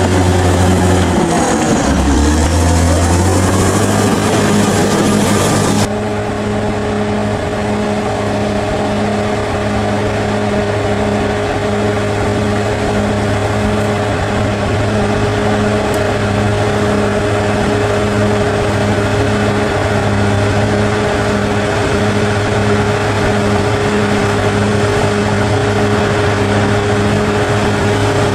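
Bulldozer's diesel engine running under load. Its pitch dips and recovers in the first few seconds, then it holds a steady note, with an abrupt change in the sound about six seconds in.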